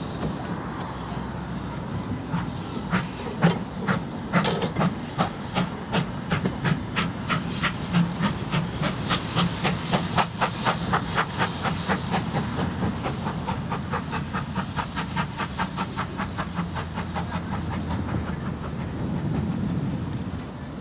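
Steam-hauled goods train of four-wheeled wagons rolling past, the wheels clicking over rail joints in a quick, even rhythm over a low rumble and steady steam hiss. The clicks fade out near the end as the brake van goes by.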